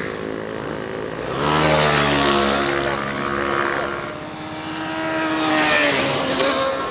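Motorcycles passing by, one after the other, their engine notes rising as each comes close and dropping as it goes away. The first pass is loudest about two seconds in and the second shortly before the end.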